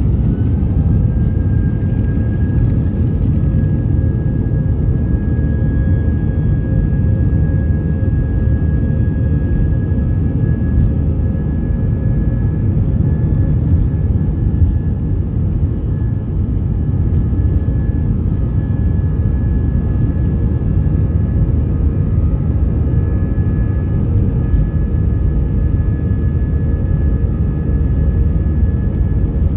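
Airbus A320 jet engines heard inside the cabin: a loud, steady rumble with a steady whine on top. The whine rises in pitch just at the start as engine power increases, then holds.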